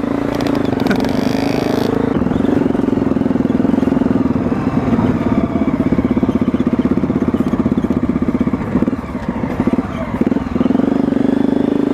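Trail motorcycle engine running steadily as the bike is ridden, its note holding a constant pitch, easing off briefly a couple of times in the second half.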